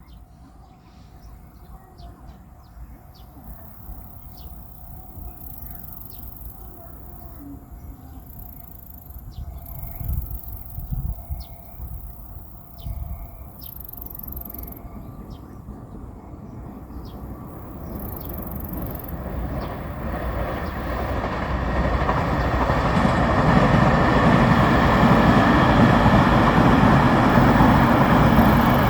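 JR Shikoku 8000 series electric limited express approaching and passing through a station at speed. The rumble and rushing of the train build steadily from about two-thirds of the way in and stay loud to the end. Before that, faint regular clicks come about once a second.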